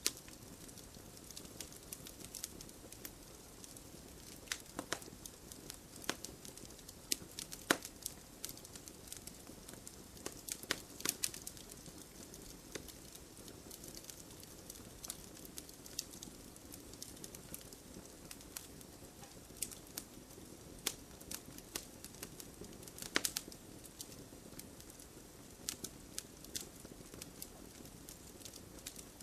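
Wood campfire burning: a steady low hiss under irregular sharp crackles and pops, with a few louder snaps scattered through.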